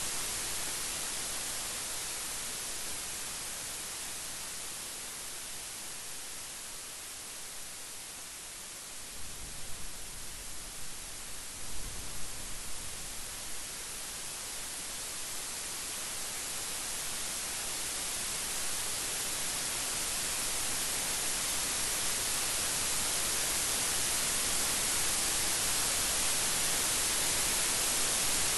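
Steady heavy rain, an even hiss that eases off a little, then grows gradually louder through the second half. A few brief low rumbles, typical of distant thunder, come about ten to thirteen seconds in.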